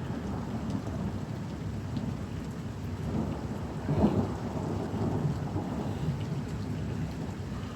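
Thunder rumbling over steady rain, with one sharper, louder clap about four seconds in.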